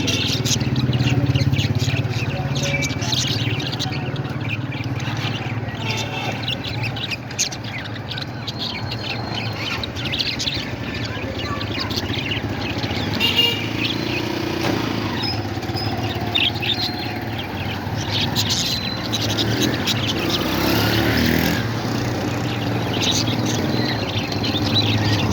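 Parrots chirping and calling: many short, high chirps come in irregular runs over a steady low hum.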